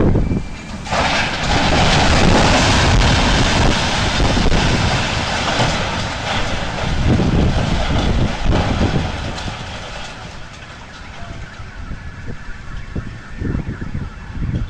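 Crash and rumble of a collapsing construction crane: a loud noisy rush starts about a second in and dies away over several seconds, leaving low rumbling.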